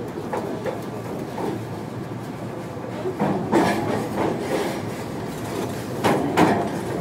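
Running noise heard inside a JR Kyushu 305 series electric train car (motor car MoHa 305-101): a steady rumble of wheels on rail. Louder clattering knocks from the wheels come about three seconds in and again about six seconds in.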